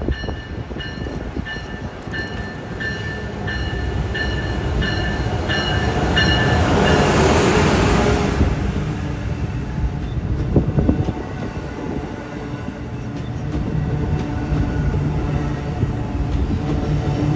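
A train passing with a steady rumble that swells to its loudest about seven to eight seconds in. A rhythmic ringing, about two strokes a second, runs through the first six seconds and then stops.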